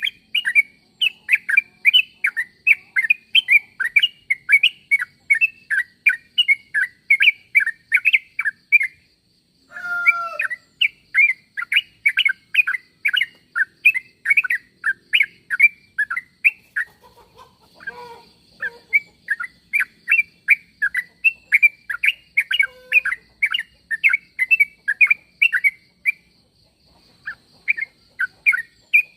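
Yellow-vented bulbul (trucuk) call, used as a lure call: a fast run of short chattering notes, about four a second, broken by two brief pauses.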